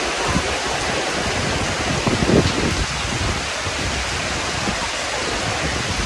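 Heavy rain pouring down steadily as a dense, even hiss, with a brief louder swell about two seconds in.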